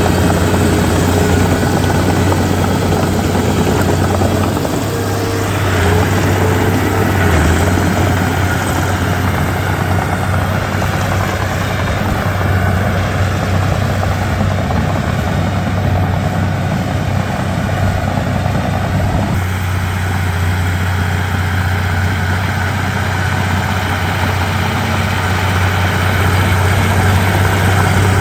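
Komatsu D31P crawler bulldozer's diesel engine running steadily, with a strong low hum; the engine note shifts about five to seven seconds in and again about two-thirds of the way through.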